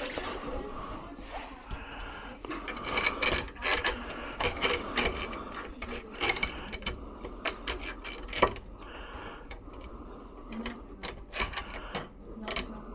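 Metal clicking and rattling of door-lock parts and hand tools being worked, in irregular bursts, with one sharp click about eight and a half seconds in.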